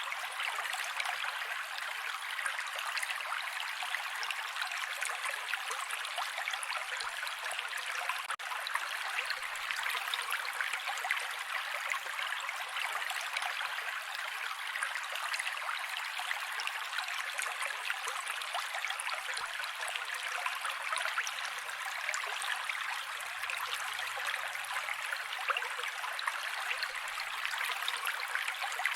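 Mountain creek water running over rocks: a steady rushing with many small splashes, even throughout.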